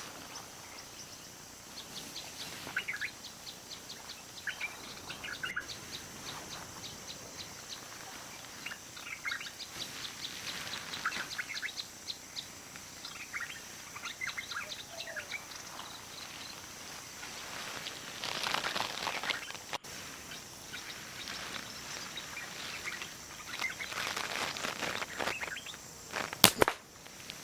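Small wild birds chirping in short repeated bursts over a steady high-pitched background hiss. One sharp, loud crack sounds near the end.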